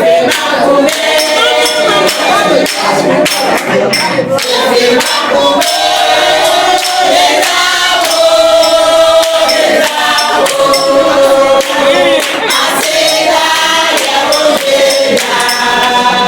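Group of voices singing a gospel-style song together, over a steady beat of percussion hits.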